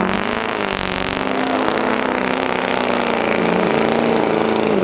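Diesel truck engine running with a steady drone, with a brief rush of noise about a second in.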